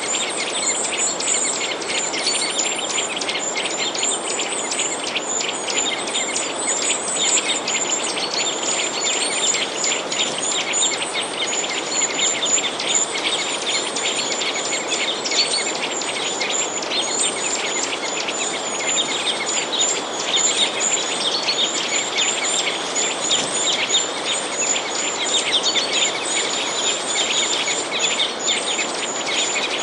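A dense chorus of small birds chirping and twittering without pause, many short high calls overlapping, over a steady background hiss.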